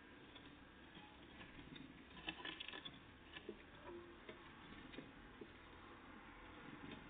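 Faint, scattered ticks and taps of great tits and blue tits pecking and hopping while feeding, with a quick cluster of them about two seconds in, over a low background hum.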